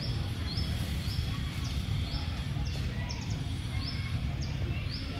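A bird repeating a short, high call about twice a second, over a steady low rumble.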